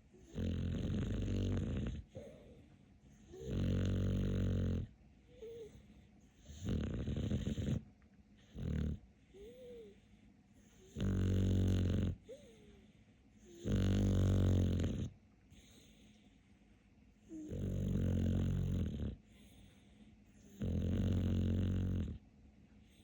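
A dog snoring in its sleep: a loud rasping snore about every three seconds, some eight in all, with faint whistles between them.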